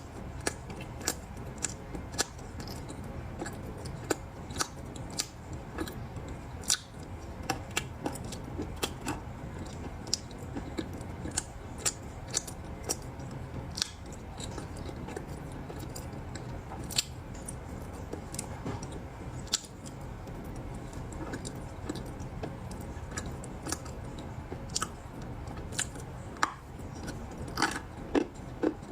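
Ice balls being bitten and crunched in the mouth, with sharp, irregular crunches coming every second or so and a quicker cluster near the end, over a steady low hum.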